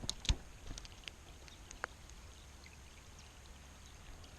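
Creek water running over rocks in a steady wash, with a few sharp clicks in the first two seconds, the loudest about a third of a second in.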